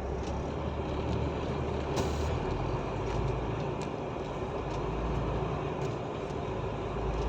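Truck engine heard from inside the cab while driving slowly, a steady low hum. About two seconds in there is a short hiss, and the engine note drops lower.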